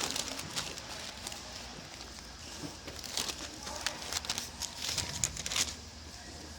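Paper rustling as Bible pages are turned, with a cluster of sharper crinkles and rustles in the second half that die away near the end.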